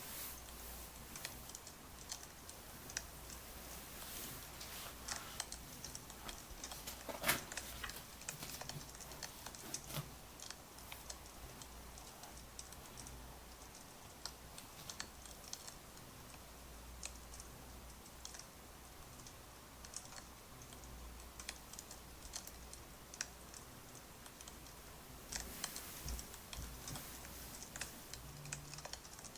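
Wood fire crackling: irregular small pops and snaps over a soft hiss, with the loudest snap about seven seconds in and a cluster of snaps near the end.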